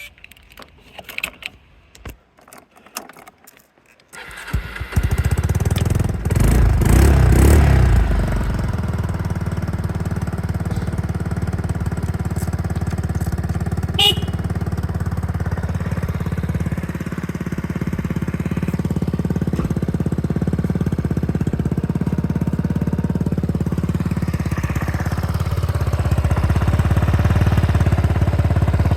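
Yamaha Majesty 250C scooter's single-cylinder four-stroke engine starting about four seconds in after a few light clicks, revved briefly, then idling steadily.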